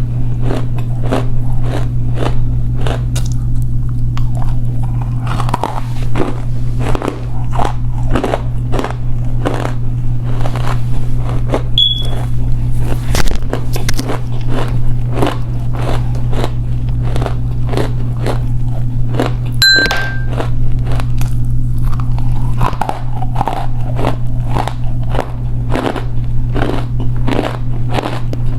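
Edible clay being bitten and chewed close to the microphone: a steady run of dry crunches, about two a second, over a constant low hum. Two brief high beeps, about twelve and twenty seconds in.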